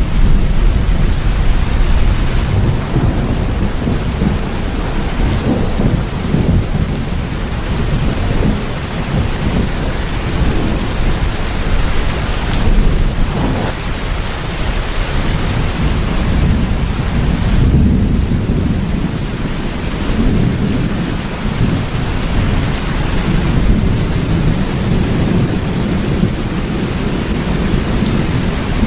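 Steady rain with low, rolling rumbles of thunder underneath.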